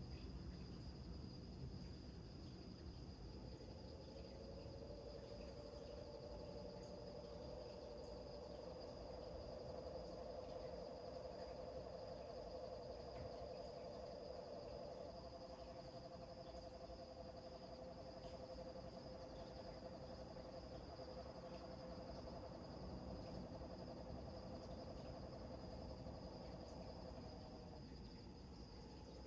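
Crickets chirring steadily and high, with a frog's long, low, finely pulsed trill that starts a few seconds in, shifts pitch about halfway, and stops shortly before the end.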